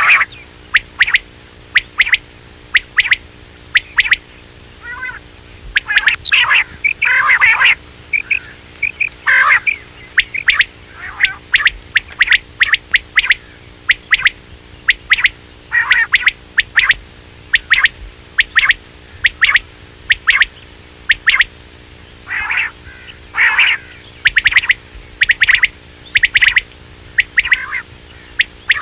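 Quail calling: short, sharp notes repeated about once a second, with a few denser bursts of overlapping calls. This is a recorded quail call of the kind played to lure quail.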